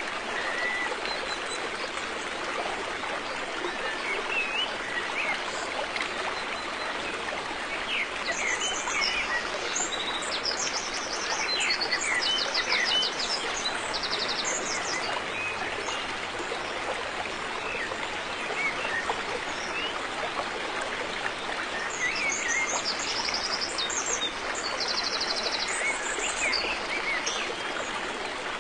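River water flowing steadily, with birds calling over it: short chirps throughout and bursts of rapid high trills about a third of the way in and again near the end.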